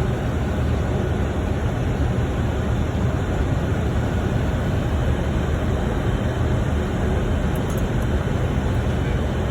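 Steady low rumble and rush of airflow and engine noise on the flight deck of a Boeing 747-400 on approach.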